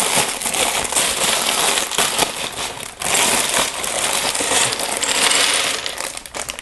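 Plastic parts bag of Lego pieces being torn open and handled: loud crinkling with the rattle of small plastic bricks, in two long bouts with a short break about three seconds in.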